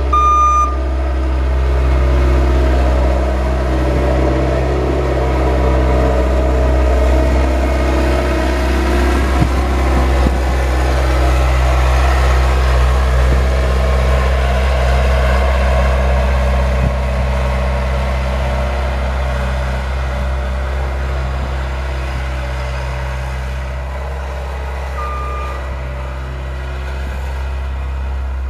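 The engine of a snowplowing vehicle runs steadily with a deep hum. A short electronic beep sounds once, near the end.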